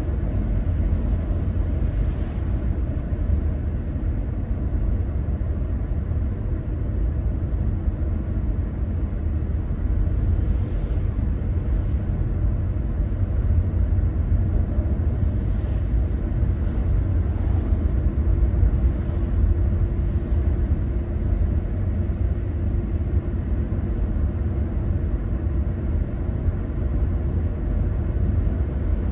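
Steady low rumble of a car being driven: engine and tyre road noise.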